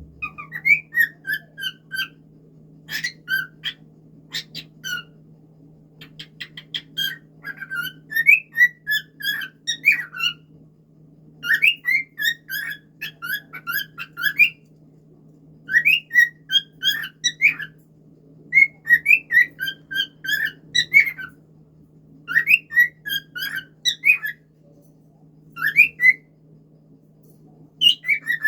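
A cockatiel whistling its song in repeated short phrases of quick, warbling chirps that glide up and down, with brief pauses between the phrases.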